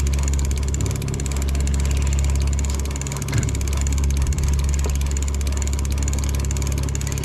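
Boat engine running steadily at low revs, a constant low hum heard from on board.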